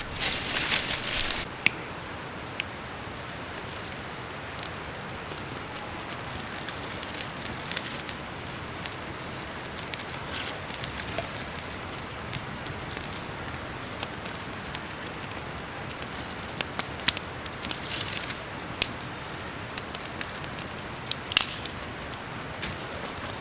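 Crackling from camp cooking: scattered sharp pops and clicks, with a louder burst of crackle in the first second or so, over the steady rush of creek water.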